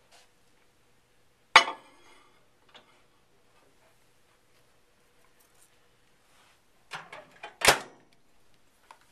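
Microwave oven door being opened and shut with a dish going in: a loud clack with a short ring about a second and a half in, a light knock a second later, then a run of clacks ending in another loud one near the end as the door is shut.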